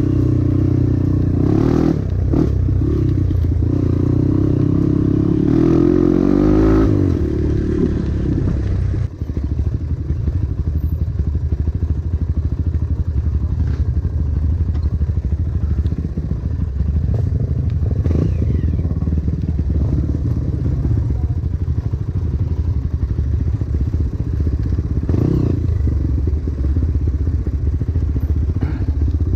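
Dirt bike engine running under way on a trail ride, revs rising and falling over the first seven seconds or so, then running steadier and lower from about nine seconds in.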